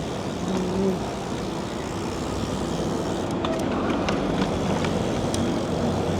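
Steady road traffic noise: cars running and tyre noise, with a few light clicks.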